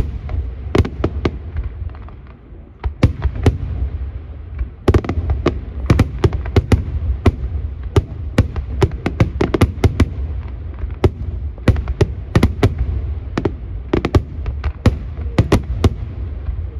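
Aerial firework shells bursting in quick succession over a steady low rumble. The bangs thin out briefly about two seconds in, then come thick and fast from about five seconds on.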